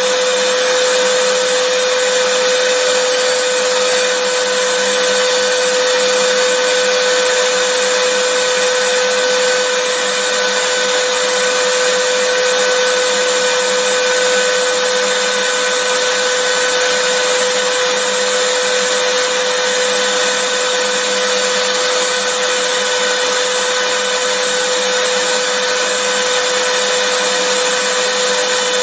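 Vacuum cleaner running steadily: an even rushing noise with a constant motor tone, no change in speed or pitch.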